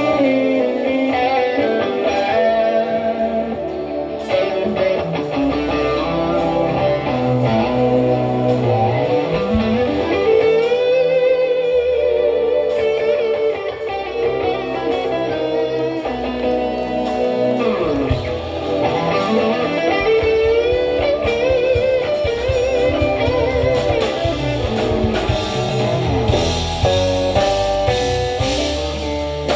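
Live band music led by an electric guitar playing a lead line with long, sweeping pitch bends over a bass line, with no singing.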